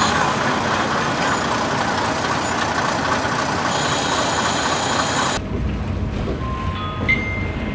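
Steady running noise of a diesel train. About five seconds in it cuts off abruptly to a low hum, over which a few short bell-like musical notes sound near the end.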